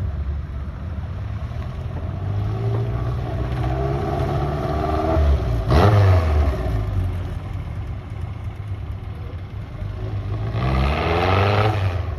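Racing-spec Alpine A110's four-cylinder engine revving from a rumbling idle. The pitch climbs gradually, then there is a sharp rev about halfway, and another rising rev near the end.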